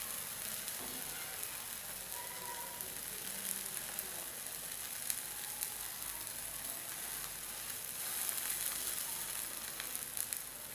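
Rava uttapam sizzling in oil on a hot iron tawa: a steady, high hiss with a few sharp clicks, a little louder around eight seconds in.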